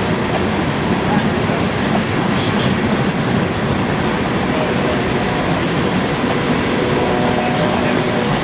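Freight cars, boxcars and tank cars, rolling past: a steady rumble and rattle of steel wheels on rail. A brief high wheel squeal comes about a second in.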